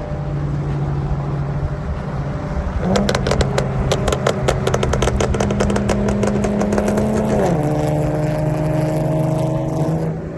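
Car engine idling, then revved up and held at a steady higher speed for about four and a half seconds with a rapid run of sharp pops, before dropping back to idle.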